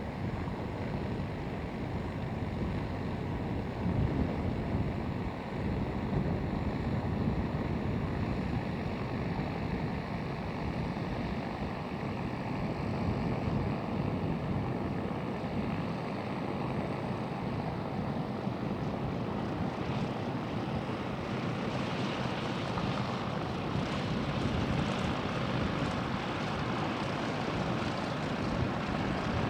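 1952 Cessna 195A's radial engine and propeller running steadily, the sound turning brighter and harsher about two-thirds of the way in.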